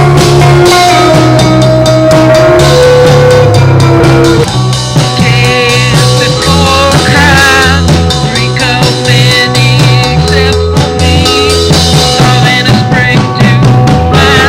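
Rock music with a drum kit and bass. About four seconds in the arrangement changes, and wavering, warbling high notes come in over the band.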